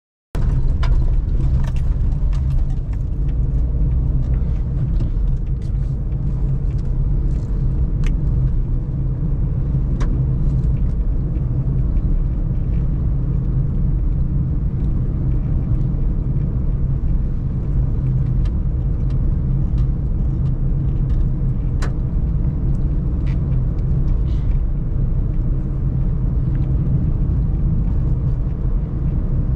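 Suzuki Celerio being driven: a steady low rumble of engine and road noise that cuts in abruptly at the start, with a few faint ticks now and then.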